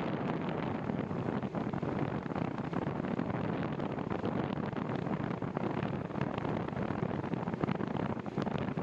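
Wind buffeting the microphone of a moving bicycle, a steady, dense rumbling noise with a few faint clicks.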